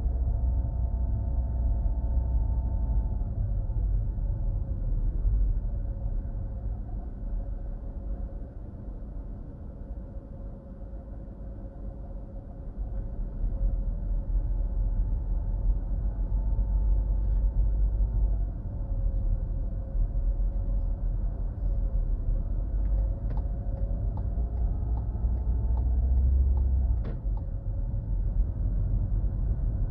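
Car driving, heard from inside: a steady low road and engine rumble, with the engine note rising and falling several times as the car speeds up and eases off. It goes quieter for a few seconds near the middle.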